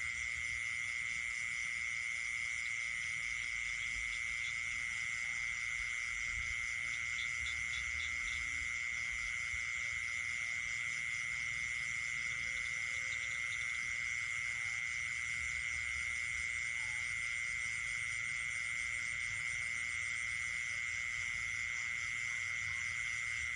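Chorus of crickets and frogs calling together: one steady, unbroken high trill, with fainter, faster pulsing chirps layered above it.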